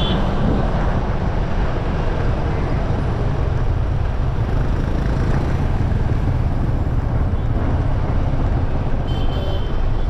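Steady low rumble of wind and road noise from a moving ride through street traffic. About nine seconds in comes a brief run of high, pulsed beeps.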